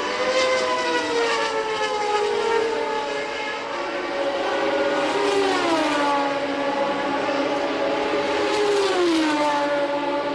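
1989 Formula One cars' naturally aspirated racing engines running at high revs, the engine note falling in two downward sweeps, about halfway through and again near the end.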